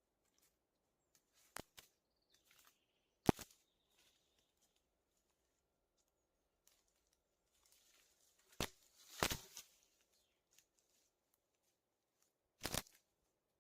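A handful of short, sharp cracks or knocks over near quiet: one about one and a half seconds in, the loudest a little after three seconds, two close together around nine seconds, and a last one near the end.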